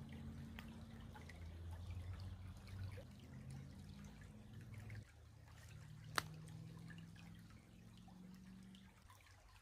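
Faint trickling of creek water with a few light drips, under a low steady hum, and one sharp click about six seconds in.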